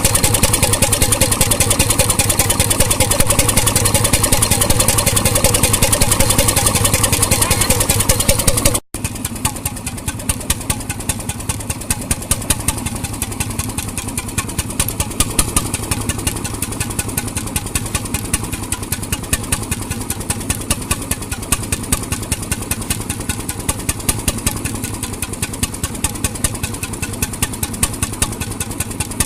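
1921 RSM 3½ HP hot-bulb marine engine running steadily with a regular beat. About nine seconds in, the sound cuts out for a moment and carries on quieter.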